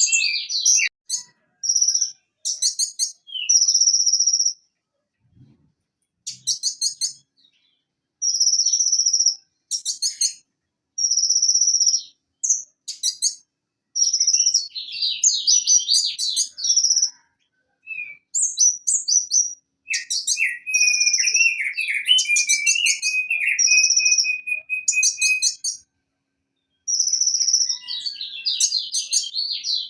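Purple-throated sunbird (konin) singing: bursts of high, fast chirps and trills broken by short pauses, with a lower warbling phrase in the middle.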